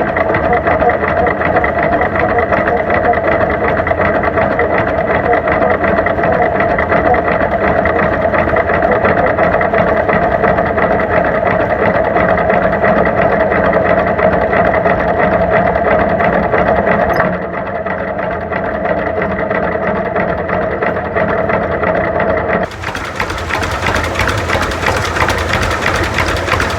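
Two-cylinder engine of a 1949 John Deere G tractor running steadily. About 17 seconds in it drops a little quieter, and near the end a loud rushing hiss covers it for about four seconds.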